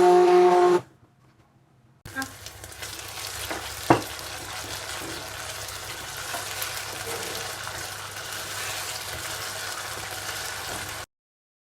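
Food sizzling in a hot pan: a steady frying hiss that starts a couple of seconds in and cuts off abruptly near the end, with one sharp knock of a utensil against the pan about four seconds in.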